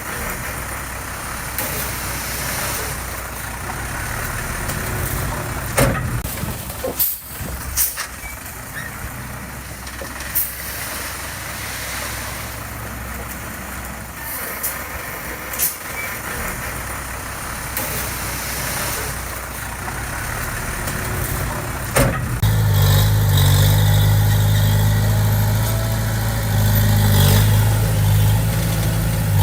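Diesel engine of heavy earthmoving machinery running, with a few sharp clanks. About three-quarters of the way through, the engine note becomes much louder and steadier, a deep low-pitched drone.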